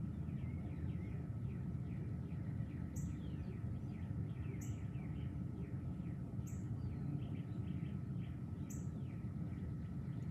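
Songbirds chirping: a stream of quick, falling chirps, with a short, very high note repeating about every two seconds. Beneath them runs a steady low rumble.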